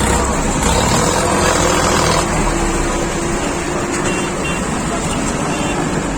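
Manitou TLB 740 S backhoe loader's diesel engine running, heard from inside the cab, a little louder for the first two seconds and then steady.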